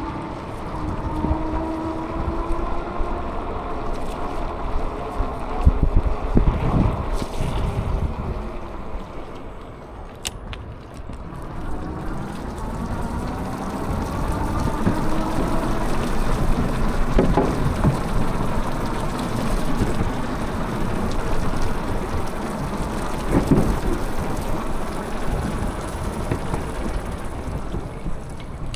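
Wind buffeting the microphone on a moving bicycle, with a steady low rumble and faint whining tones that drift slowly up and down.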